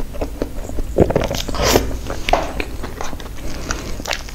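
Close-miked eating of soft strawberry crepe cake: wet chewing and lip smacks of cream and crepe layers in an irregular run of sticky clicks.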